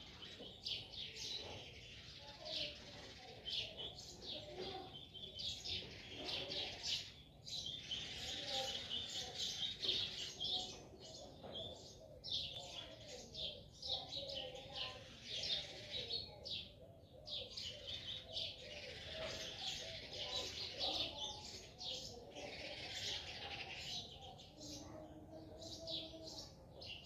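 Small birds chirping rapidly and continuously in a dense chorus of short high notes, with fainter lower calls underneath.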